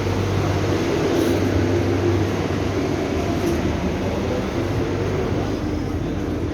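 Steady running noise of the Vande Bharat Express electric multiple-unit trainset heard inside a carriage: an even rumble with a constant low hum.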